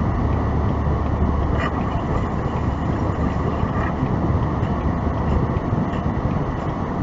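Steady rumble of a car's engine and tyres heard inside the cabin while driving.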